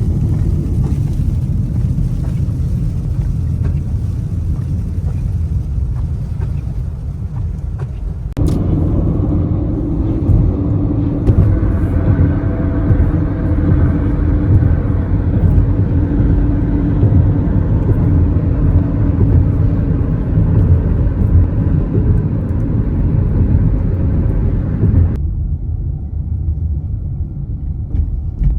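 Steady low rumble of a car in motion, road and engine noise. The sound changes abruptly about 8 seconds in and again near 25 seconds, where it turns duller.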